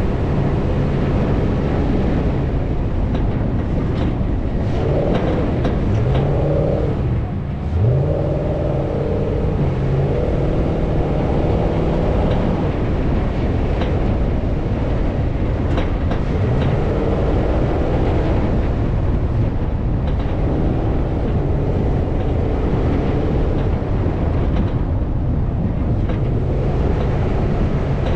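Off-road vehicle engine running hard over sand, with rumble and wind noise on the microphone. The revs climb and fall several times, with a short dip about seven seconds in like a gear change.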